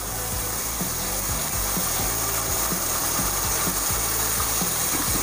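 Masala gravy sizzling in a nonstick kadai over a gas flame as water is mixed in, with a metal spoon stirring and scraping the pan in light, irregular knocks.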